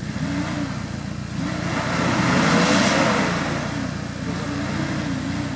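Off-road vehicle's engine revving up and down unevenly over a steady low rumble, swelling loudest around the middle.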